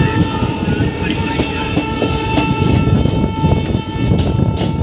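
Indian passenger train running, heard from beside the coach: a steady rumble of wheels on rails with a steady high-pitched tone over it, and a few sharp clicks of wheels over rail joints near the end.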